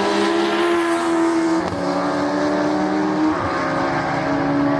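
Racing car engines running on the circuit, their engine notes dropping in pitch in a few steps.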